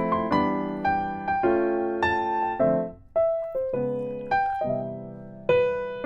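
Background piano music: a gentle melody of struck notes and chords, each starting sharply and fading away.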